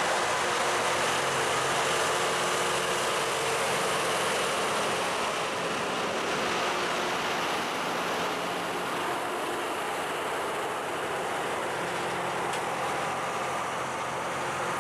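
LORAM rail grinder's diesel power units running steadily, a continuous mechanical drone that eases slightly over the last few seconds.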